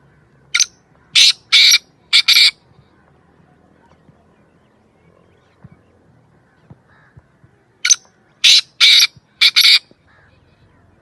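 Black francolin calling: two loud, harsh phrases of about five grating notes each, one near the start and one about eight seconds in.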